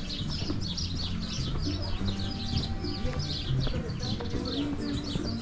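A flock of birds chirping and chattering nonstop, several quick high calls a second, over a low murmur of voices.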